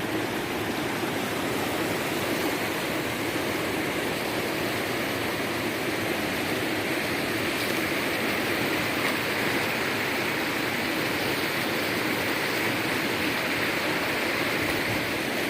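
Rushing river water pouring over rocks in rapids and a waterfall, a steady, unbroken rush.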